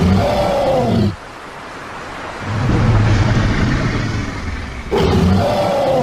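Creature roar sound effect for an imagined dinosaur-like animal. A loud call falls in pitch, a low rumbling growl follows, and the same falling call comes again near the end.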